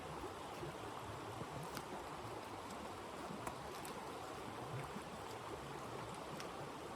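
Steady rushing wind with a few faint, sharp crackles of a wood fire scattered through it.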